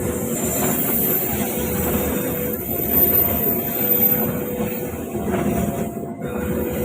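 A train passing close by: a steady, loud rumble of wheels and running gear, with a faint high squeal over it in the first few seconds.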